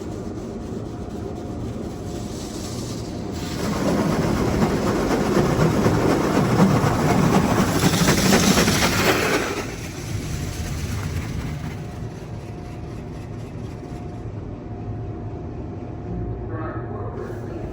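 Petit AccuTrac 360-i in-bay car wash running, with a steady mechanical hum. About three and a half seconds in, a loud rush of spray or air sweeps over the car for about six seconds, then fades back to the hum.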